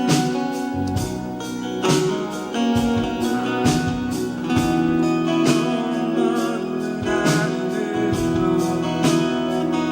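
Gospel worship music played instrumentally: guitar over sustained chords, with a strong beat struck about every two seconds.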